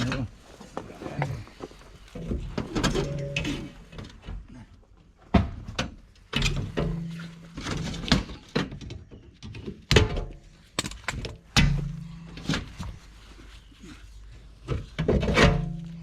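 Irregular sharp knocks and thunks of hands-on work on a mobile home's wall framing, about half a dozen in all, several followed by a brief low ring.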